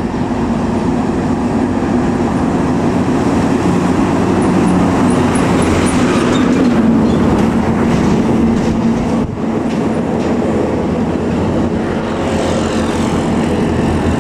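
A heavy vehicle passing close by on the highway, its diesel engine hum and tyre rush building to a peak around the middle and easing off toward the end.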